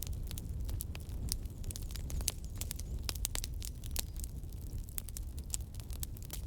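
Fire in a fireplace crackling: a constant run of sharp pops and snaps, several a second, over a low steady rumble.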